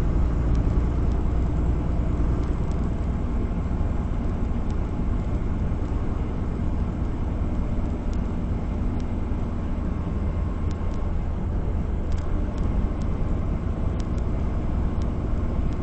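Semi truck running at a steady road speed, heard from inside the cab: a steady diesel engine drone with road and tyre noise, and a few faint scattered ticks.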